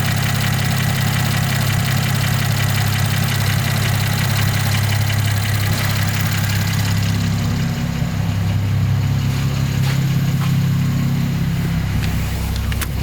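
Mercedes-Benz M276 3.5-litre V6 idling steadily. About seven seconds in, the hiss above the engine note drops away, and a sharp click comes near the end.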